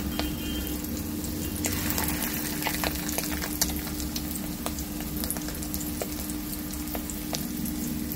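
Fish-roe fritters of roe, onion and gram flour frying in hot oil. The oil sizzles steadily, with scattered sharp pops and crackles as the fish roe bursts, over a steady low hum.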